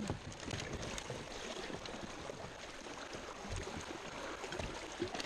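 Steady rush of river water around a kayak, with a few faint knocks.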